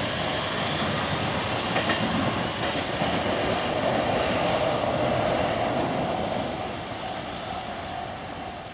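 JR Kyushu 817 series electric train's inverter and traction motors whining as the train runs. The sound is a steady tone that grows a little in the middle and fades over the last few seconds.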